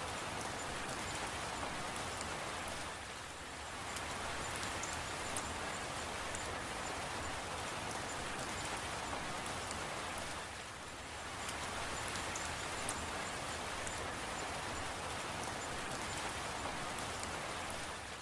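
Steady rain falling, with scattered sharp drip ticks over the even hiss. It eases briefly twice, a few seconds in and again just past the middle.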